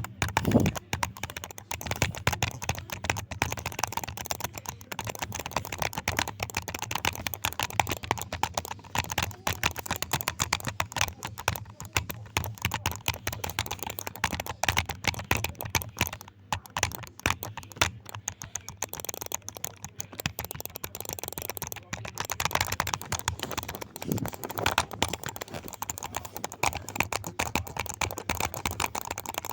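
Fast, continuous typing on a keyboard: a dense stream of sharp key clicks with no pauses longer than a moment.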